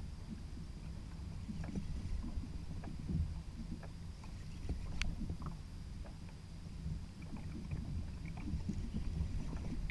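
Ocean water sloshing against a kayak hull, a steady low rumble with scattered small knocks and clicks. One sharper click comes about halfway through.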